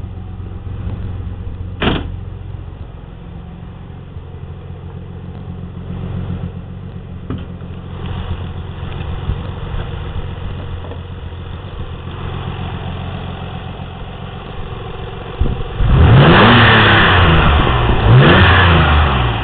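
Nissan 300ZX Twin Turbo's 3.0-litre twin-turbo V6 idling, then revved twice near the end, its pitch rising and falling each time. A single sharp click about two seconds in.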